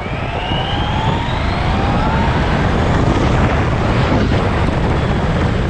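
Sports car accelerating hard: a deep engine rumble and rushing noise, with a whine that rises in pitch over the first couple of seconds and then holds steady and loud.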